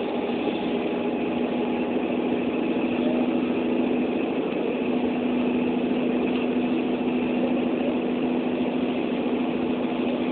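A vehicle engine running steadily with an even, constant hum.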